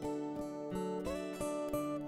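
Background music: acoustic guitar, plucked notes and chords ringing on in a calm, relaxed piece.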